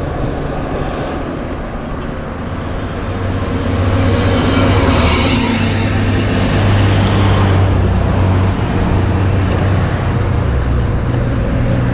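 A motor vehicle passing close on the road, its noise swelling to a peak about five seconds in and then easing, over a steady low rumble.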